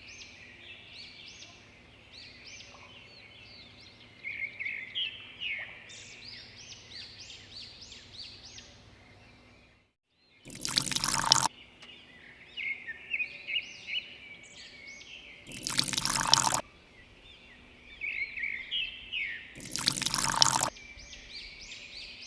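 Small birds chirping busily, with three loud bursts of rushing noise, each about a second long, in the second half.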